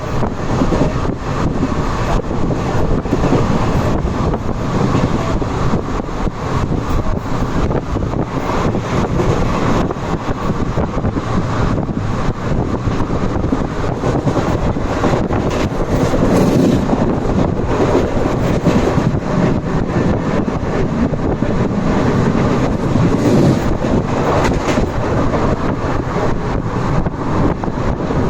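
Superfast express train running at speed: a steady loud rumble and rush of noise, with wind buffeting the microphone.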